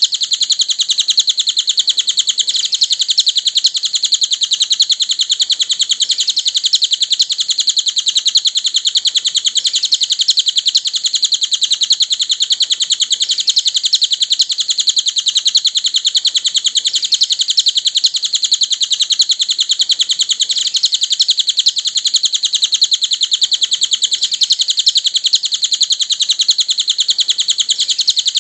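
Cililin bird song: a continuous, very rapid high-pitched chattering trill of tightly repeated notes, going on without a break at an even level.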